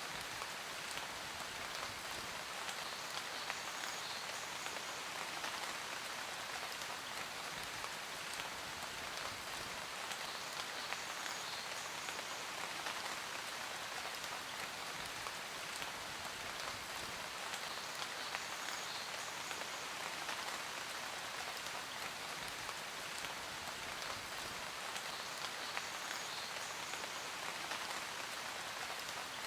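Steady rain falling on a surface: an even, unbroken hiss of dense patter with individual drops ticking through it.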